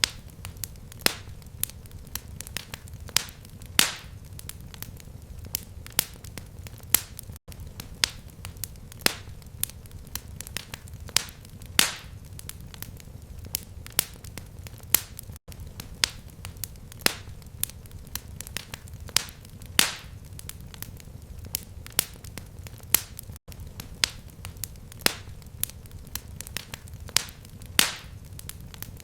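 Fireplace fire crackling: irregular sharp pops and snaps, a couple a second, over a low steady rumble, with a brief gap about every eight seconds.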